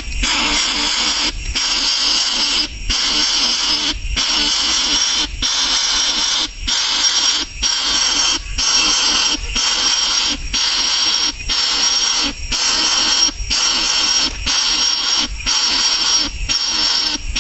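A nestling bird giving harsh, hissing begging calls over and over. Each call lasts about a second, with a brief break between calls.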